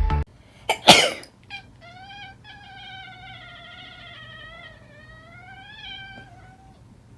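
A domestic cat giving one long, wavering yowl of about five seconds, after a loud short thump about a second in.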